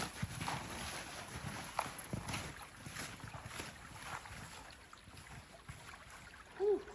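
Footsteps crunching through deep snow, a step about every half second, growing fainter after about four seconds. A brief grunt near the end.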